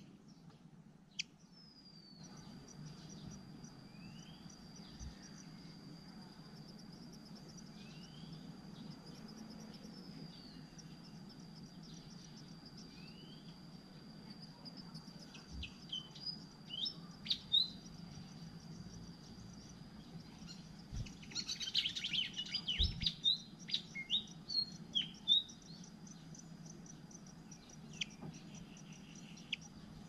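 Malaysian pied fantails chirping: short upslurred notes spaced a few seconds apart at first, then quick clusters of loud chirps in the second half, over a thin steady high whine and a low hum.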